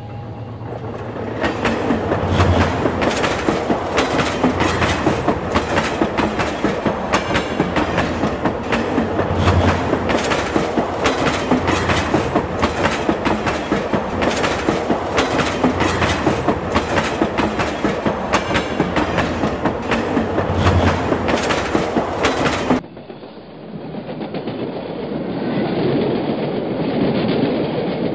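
Train wheels clicking rapidly and unevenly over rail joints, a dense rolling clickety-clack. About 23 seconds in it cuts off suddenly and gives way to a quieter, steady rumble of running trains.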